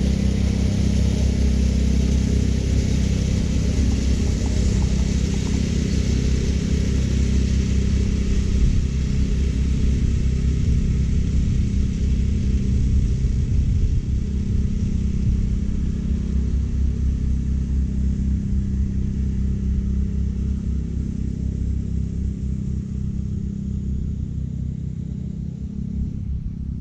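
California Trimmer gas reel mower running steadily, its small engine humming under the whir of the reel cutting short Bermuda grass. It gradually gets quieter over the last several seconds.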